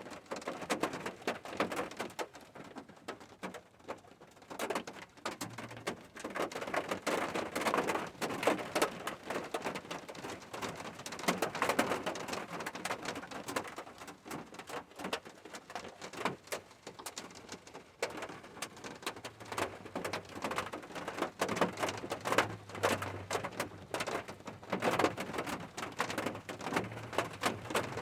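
Rain falling, a dense patter of drops that swells and eases every few seconds. A faint low hum comes and goes in the second half.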